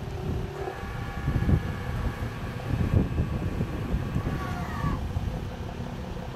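Nissan 350Z's 3.5-litre V6 running at low revs through an aftermarket GTR rear silencer, a steady, uneven low rumble. A faint whining tone falls in pitch about five seconds in.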